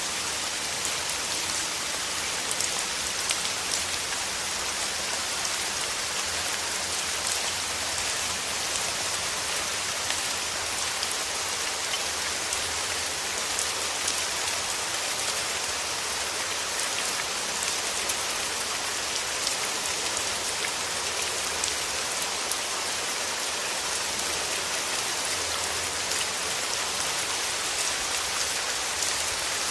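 Steady rain falling on rose petals: an even hiss of rainfall with many small, close drop ticks.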